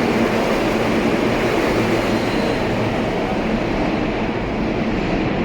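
R160-series New York City subway train running on the rails, a steady rumble and rush of wheels on track, with the high hiss thinning in the last second or so.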